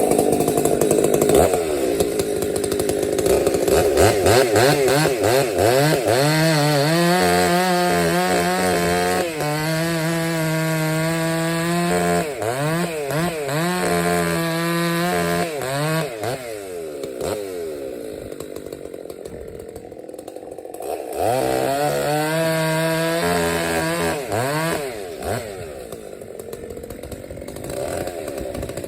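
Husqvarna 266 SE two-stroke chainsaw, about 67 cc, revved up and held at high speed while bucking logs, its engine note dipping under load. It drops back to a quieter, lower speed around the middle, then revs up for another cut and eases off near the end.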